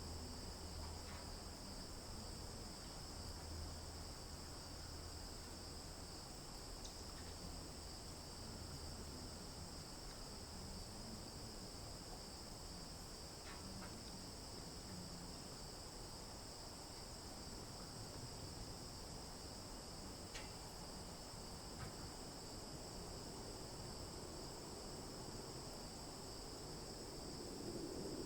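Faint, steady high-pitched insect chorus, a continuous trilling without a break, with a few faint ticks.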